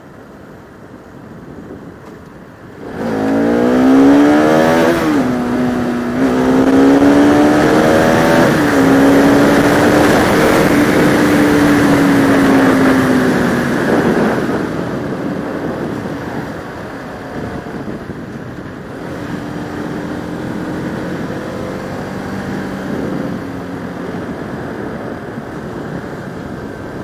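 Bajaj Pulsar RS200's single-cylinder engine accelerating hard: the revs climb steeply, drop twice at upshifts, then hold high. After that the bike eases off to a quieter, steady cruise.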